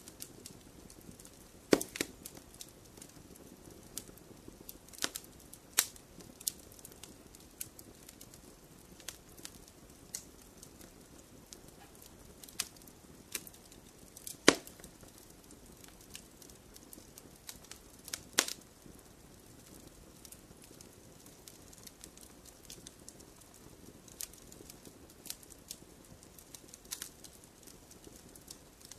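Logs burning in a fireplace, crackling with irregular sharp pops over a soft hiss. A few louder pops stand out, the loudest about halfway through.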